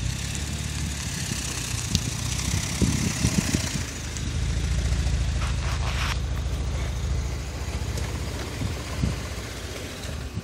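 Mercedes-Benz C350's 3.5-litre V6 idling steadily, growing a little louder in the middle as the microphone draws closer to the car.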